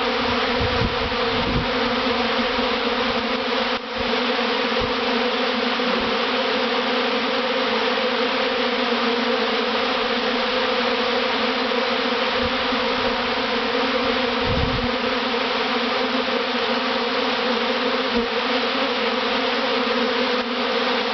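A honeybee swarm buzzing all around at close range: the dense, steady hum of thousands of bees flying in to settle into a new hive box. A few short low bumps sound under the hum.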